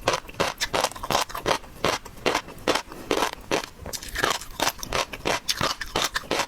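Close-miked eating of seafood: a rapid, irregular run of crisp crackles and crunches from chewing and biting.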